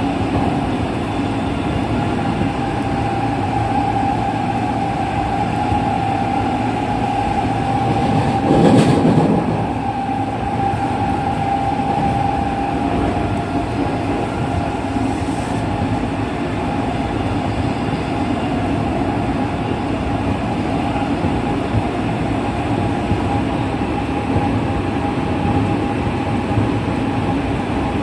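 JR West 207 series commuter train running at speed, heard from inside the car: steady rolling rumble of wheels on rail with a constant high tone from the traction motors, which keep their original pitch. About nine seconds in there is a brief louder rush.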